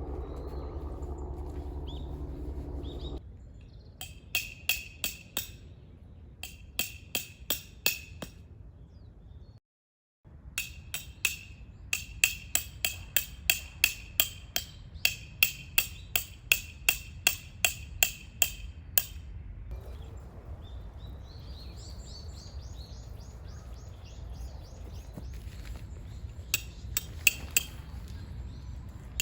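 Tent pegs being driven in with a metal peg hammer: several runs of sharp, ringing metallic strikes, about three or four a second. A steady low rumble fills the first three seconds, and faint high chirping comes in the second half.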